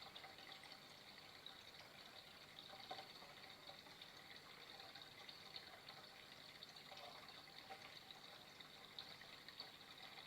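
Flowing water running steadily and faintly, with many small splashes and gurgles all through.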